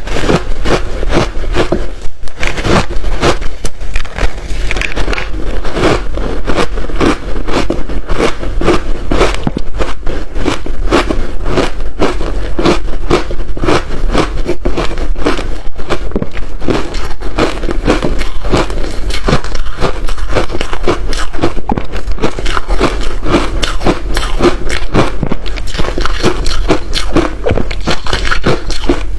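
Close-miked biting and chewing of large chunks of ice dusted with matcha powder: a dense, continuous run of sharp cracks and crunches.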